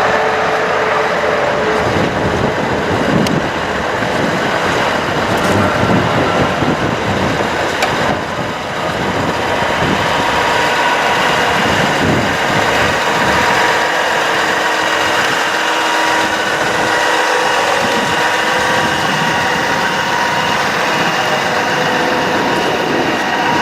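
Sterling Bullet bucket truck's diesel engine running steadily, with a faint steady whine over it.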